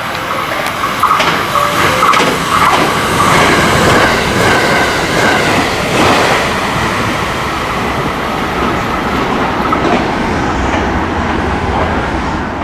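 683 series three-car limited express electric train passing through the station at speed, wheels clacking over the rail joints, the sound dying away near the end.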